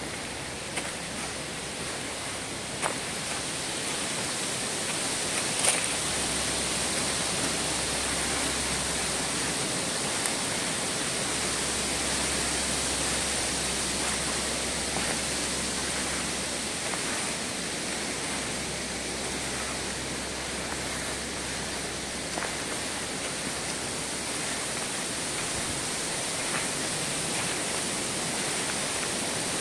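Steady even rushing noise, like outdoor water or rain ambience, with a few faint scattered ticks and snaps.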